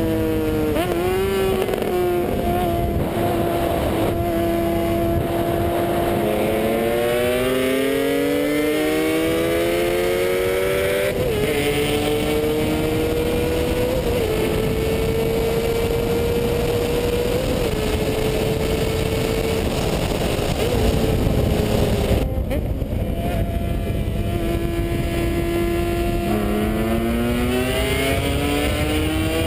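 Honda CBR600RR's inline-four engine accelerating hard through the gears under heavy wind noise. Its note climbs over several seconds, drops at each shift and holds a steady high pitch for a stretch. After a break about 22 s in, another climbing run begins near the end.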